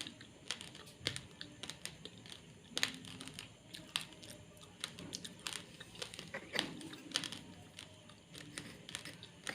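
Raw, uncooked basmati rice grains being chewed: irregular sharp crunches and crackles, several a second, with a couple of louder cracks.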